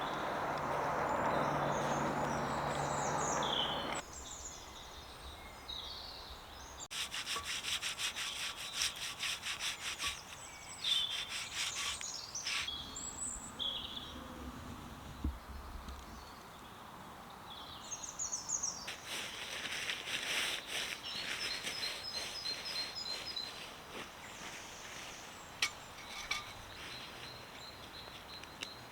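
A steady rushing hiss that cuts off about four seconds in, then several bursts of fast, rhythmic scraping, with small birds calling throughout.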